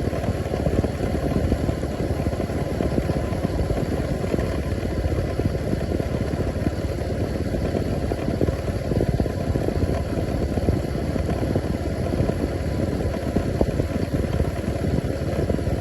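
A motor engine running steadily with an even low rumble.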